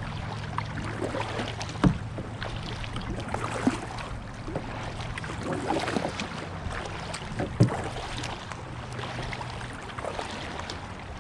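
Paddle strokes dipping and splashing in river water from a canoe or kayak, with three sharp knocks along the way.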